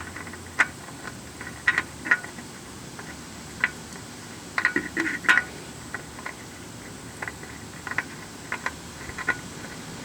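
Scattered light clicks and small rattles of a new oil filter being worked onto its mount by hand, a few clustered together about halfway through.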